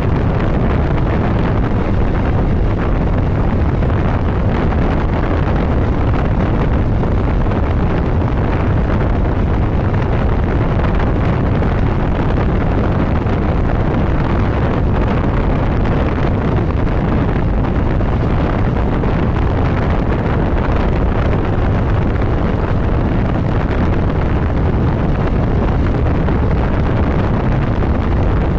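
Steady wind rush buffeting the microphone on a moving motorcycle, with the bike's engine and road noise running underneath at a constant pace.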